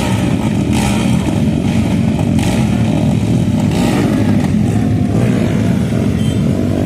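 Motocross dirt-bike engines running loudly and steadily, with a few short sharp bursts over the top.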